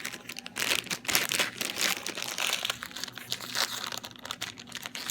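Wrapper of a frozen chocolate-covered banana crinkling and rustling in a run of irregular crackles as it is handled and opened.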